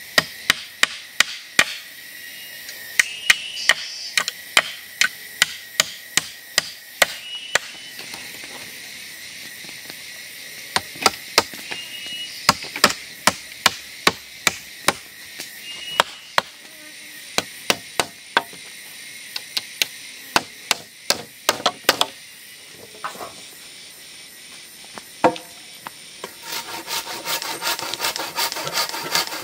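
Wood being struck with a tool over and over: sharp knocks in uneven runs of a few a second, with short pauses between. Near the end a quicker, denser rasping on wood starts.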